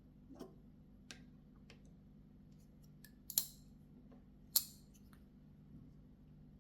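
Mini Bowie titanium liner-lock flipper knife handled and flipped: a few light clicks, then two sharp metallic snaps a little over a second apart as the blade is flicked open and shut.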